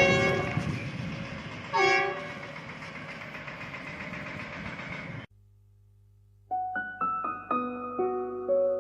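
Steady rumbling vehicle noise with two short honks about two seconds apart. The noise cuts off suddenly a little over five seconds in, and solo piano music starts about a second later.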